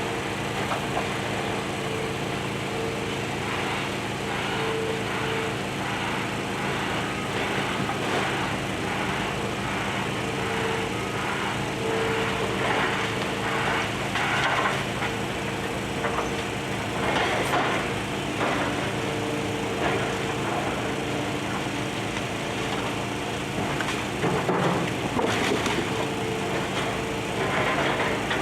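Demolition excavator's diesel engine running steadily, with irregular crunching and cracking of building debris being torn apart, heaviest in the middle and near the end.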